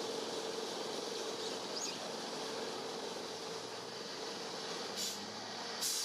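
Steady outdoor background noise with a low, even hum, a faint short bird chirp about two seconds in, and two brief hissy bursts near the end.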